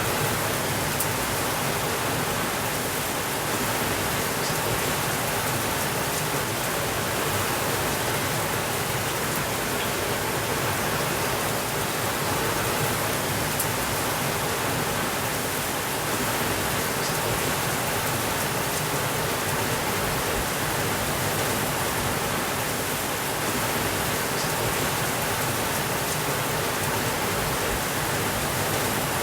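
Steady rainfall, an even, unchanging hiss, with a couple of faint clicks.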